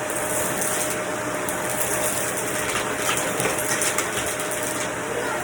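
Vacuum cleaner running steadily: a constant rushing hiss of its motor and airflow with a steady whine held at one pitch.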